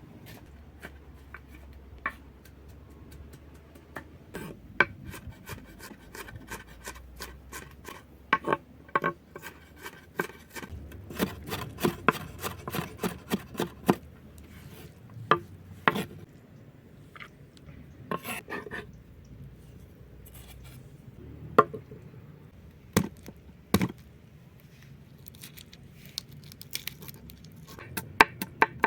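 Hand food preparation with a knife on a cutting board: irregular knocks, clicks and scraping, with a quick run of regular chopping strokes beginning near the end.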